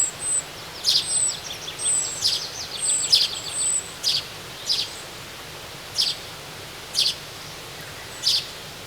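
Wild birds singing and calling: high thin whistles and quick runs of notes in the first four seconds, then one sharp call repeated about once a second.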